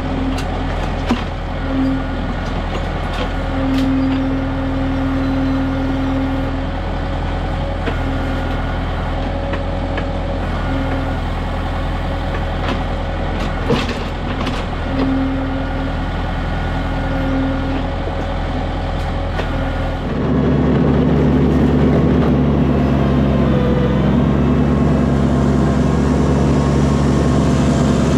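Kubota M6060 tractor's four-cylinder diesel engine running while the LW-6 backhoe digs, with a whine that comes and goes and a few sharp knocks. About twenty seconds in, the engine sound steps up abruptly and runs louder.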